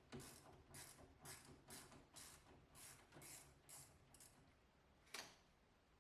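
Hand tool worked in quick repeated strokes: about nine short, quiet rasps at roughly two a second, then a single click about five seconds in.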